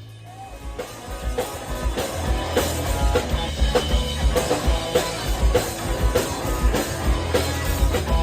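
Live rock band playing loud with drums and electric guitars. The full band comes in about a second in over a low amplifier hum, with a steady kick-drum beat.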